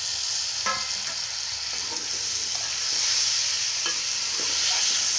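Hot oil sizzling steadily as chopped tomatoes fry with mutton, onions and spices in a pot while being stirred. There are a couple of brief scrapes, about a second in and again near the end.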